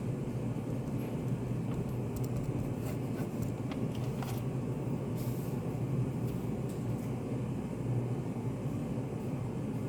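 Study café room ambience: a steady low hum and rumble, with a few faint clicks and taps and a brief soft hiss around the middle.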